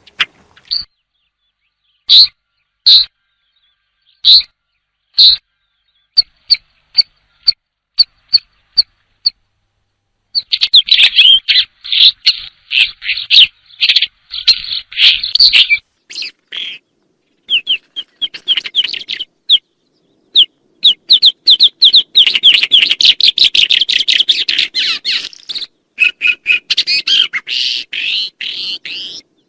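European goldfinch singing. First there are single short call notes spaced about half a second to a second apart. About ten seconds in it breaks into long runs of fast twittering song, pauses briefly, then sings again.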